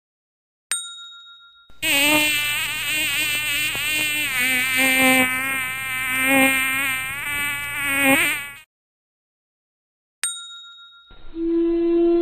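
A ding, then the buzz of a flying insect, wavering in pitch as if circling, for about seven seconds before cutting off. A second ding follows, and a steady tone begins near the end.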